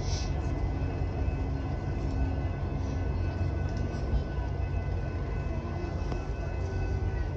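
Freight boxcars of a passing train rolling by on the rails, a steady low rumble, with people in a crowd talking.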